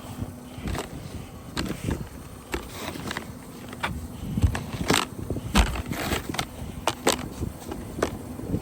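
Snow being brushed and scraped off a car with a broom: irregular short scrapes and knocks, some sharper than others, over a low rumble.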